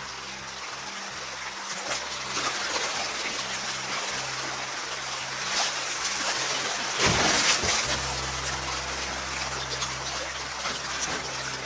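Creek water rushing and splashing in a steady hiss that swells to its loudest about seven seconds in.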